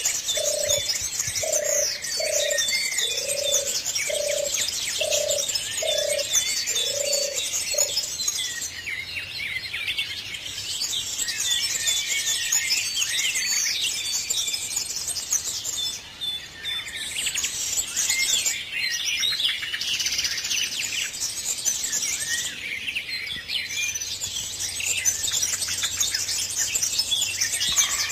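A dawn-chorus-like mix of many small birds chirping and singing together. A dove coos in low, repeated phrases about once a second for the first seven or eight seconds, then stops.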